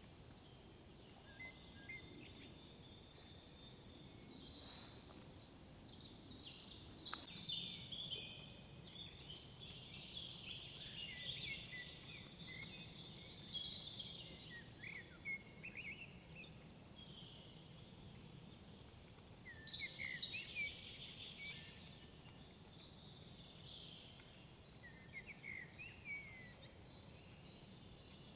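Songbirds singing in a forest: several birds giving quick chirps, warbles and trills, with a high, thin trilled phrase coming back about every seven seconds. A steady low rumble of background noise sits under the song.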